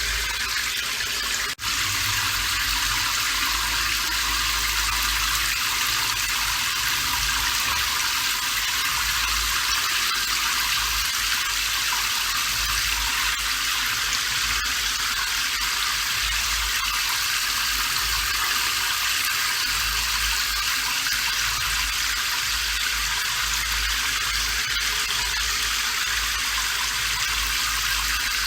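Steady rain, a dense even hiss with a faint low rumble beneath it. The sound drops out for an instant about a second and a half in.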